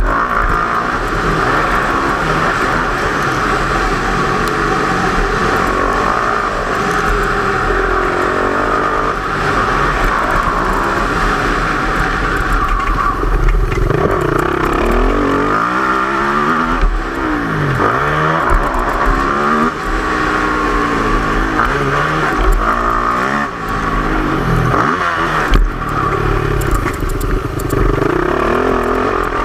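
Yamaha YZ450F single-cylinder four-stroke motocross bike engine revving hard and constantly, its pitch climbing and dropping over and over with throttle and gear changes.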